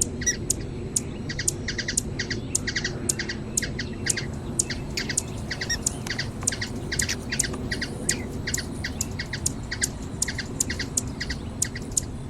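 Hummingbird calling: a rapid run of short, sharp high chirps, about three a second, over a steady low background noise.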